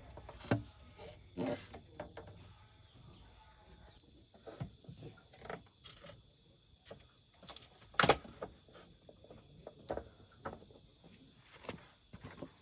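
Steady high-pitched insect drone throughout, broken by scattered sharp knocks and clacks; the loudest knock comes about eight seconds in.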